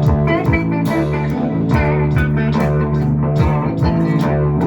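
Instrumental band music with no singing: guitar notes over a bass guitar line.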